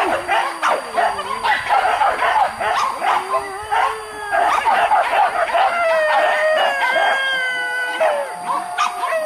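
A pack of boar-hunting dogs barking and yelping in a rapid, overlapping chorus, with long drawn-out howls from about six seconds in.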